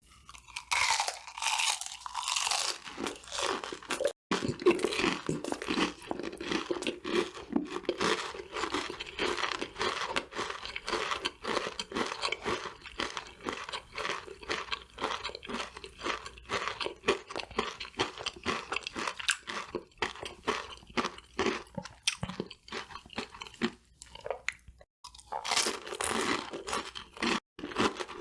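Close-miked chewing and crunching of crispy fried food, a dense run of crackly bites and chews with only a few brief pauses.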